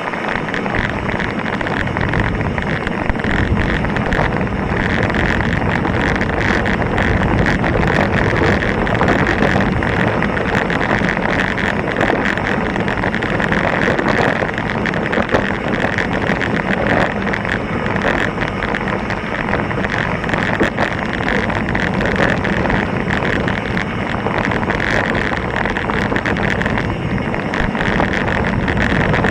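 Mountain bike descending a rocky trail at speed: continuous clatter and rattle of tyres and suspension over loose rock, with wind noise on the action camera's microphone.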